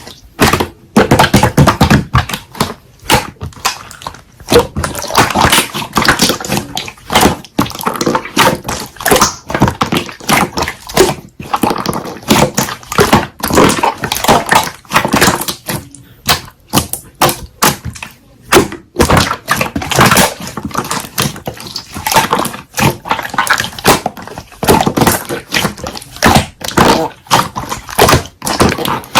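Hands squeezing, stretching and poking slime, making a fast, irregular run of sticky clicks and pops with short pauses.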